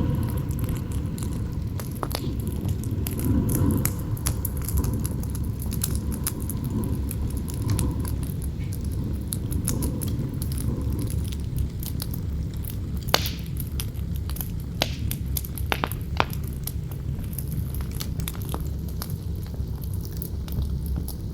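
Campfire crackling and popping over a steady low rumble of strong wind, with a few louder pops in the second half. A faint howl of wind sounds through the first part and fades out.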